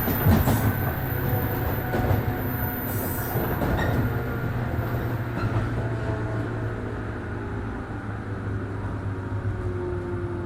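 103 series 1500 electric train heard from inside the car, slowing on the approach to a station: wheels rumbling on the rails, with a whine from the motors and gearing that falls in pitch as the train loses speed.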